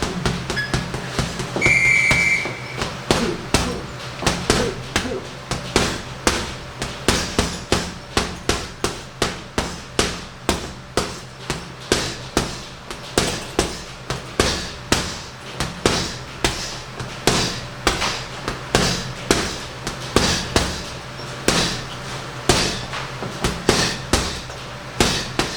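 Punches thudding into a heavy punching bag in a steady rhythm of about two to three blows a second. About two seconds in, a short, high electronic beep sounds.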